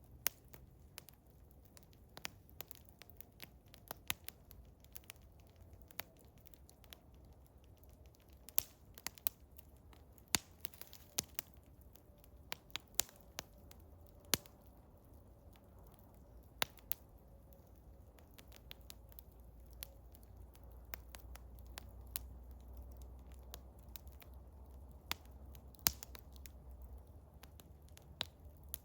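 Eastern hemlock wood fire crackling, with sharp, irregular snaps and pops over a low steady rumble.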